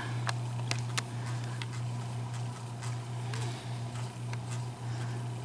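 A steady low hum, with a few faint clicks in the first second or so.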